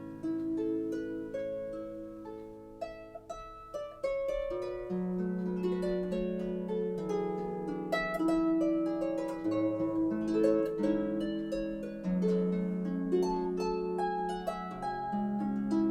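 Background harp music: plucked harp notes in a flowing melody over ringing bass notes.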